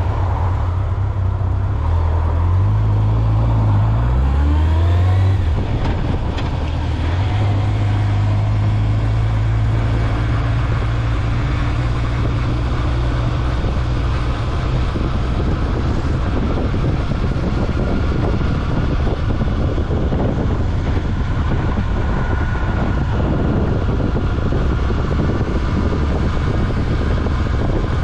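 Honda Nighthawk 750's air-cooled inline-four engine under way on the road, its pitch rising as the bike accelerates for a few seconds, then dropping at a gear change about five seconds in. After that it settles into a steady cruise under a constant rush of wind and road noise.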